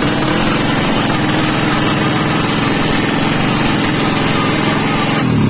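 Small drag-bike motorcycle engine running steadily. Its revs dip briefly and pick back up near the end.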